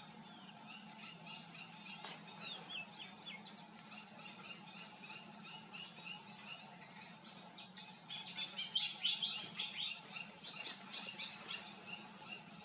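Birds calling with rapid, repeated short chirps, in two louder runs about halfway through and near the end, over a steady low hum.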